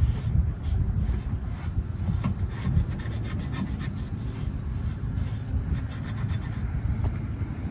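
A wipe rubbing over a chrome exhaust tip in quick back-and-forth strokes, wiping off surface soot.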